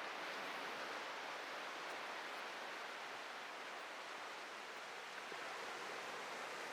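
Atlantic surf washing onto a beach: a steady hiss of breaking and receding waves, swelling slightly about a second in.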